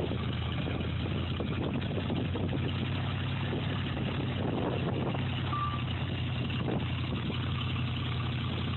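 A machine's engine running steadily: a low, even hum with a rougher noise above it.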